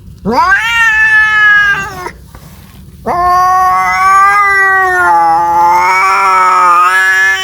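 Domestic cat yowling: a drawn-out call of about two seconds that rises and falls, then a longer, wavering yowl starting about three seconds in.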